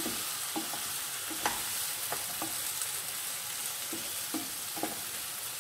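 Eggplant slices sizzling in hot oil in a pan while a spatula stirs them, with a steady frying hiss and a scattering of light clicks and scrapes as the spatula knocks against the pan.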